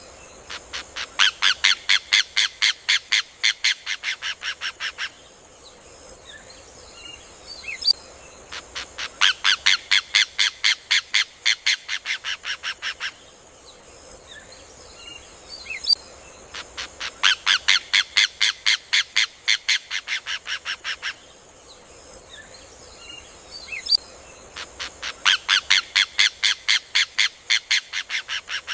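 Rufous hornero (João-de-barro) singing: four bouts of rapid, loud ringing notes, about six a second, each lasting about four seconds and trailing off toward the end, repeating evenly every eight seconds. A single sharp call comes just before each bout, with faint chirps from other birds in between.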